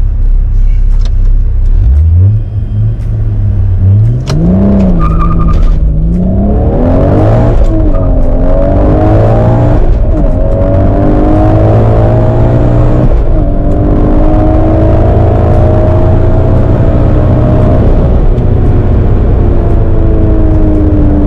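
Toyota Supra MK4's single-turbo 2JZ-GTE straight-six at full throttle on a quarter-mile run. The revs climb and drop back several times as it shifts up through the gears, then it holds a long pull in a high gear.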